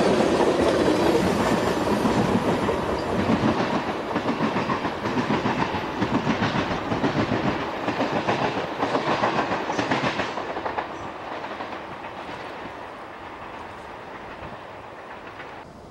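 Freight train of tank cars rolling past, steel wheels clicking over the rail joints in a steady clickety-clack. The sound fades away over the last few seconds as the end of the train moves off.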